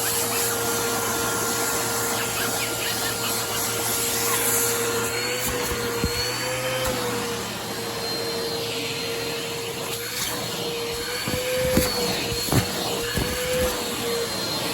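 Bissell vacuum motor running steadily as it is worked over couch cushions, its pitch wavering now and then as the load changes, with a few light knocks in the second half.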